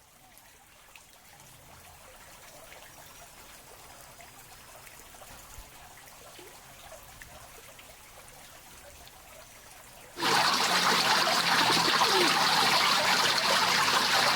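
Faint background hiss, then about ten seconds in a loud stream of running water starts suddenly and runs for about four seconds before cutting off.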